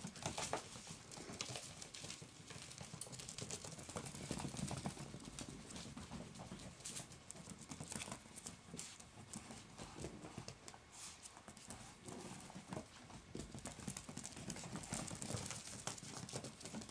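A litter of puggle puppies running about together, their paws making many quick, irregular taps.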